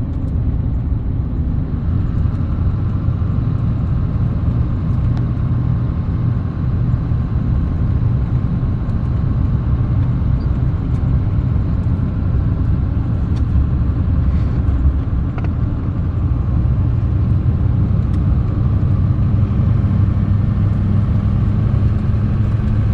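A 2006 Chevy 3500 pickup truck driving down the road: a steady, low rumble of engine and road noise.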